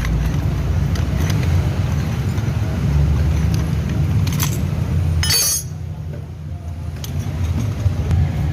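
Light metallic clinks of tools and parts over a steady low hum, with a short hiss about five seconds in.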